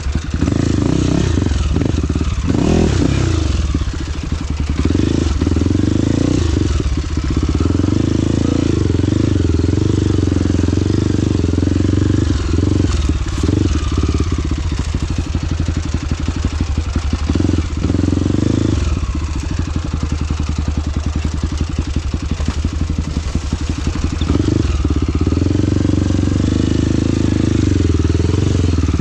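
Off-road trail motorcycle engine running as it is ridden, the throttle easing off and opening again every few seconds.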